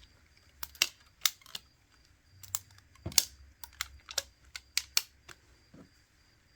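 Rubber bands being stretched and snapped around a smartphone to clamp its freshly glued screen while it cures: a run of about a dozen sharp, irregular clicks and snaps that stops about five seconds in.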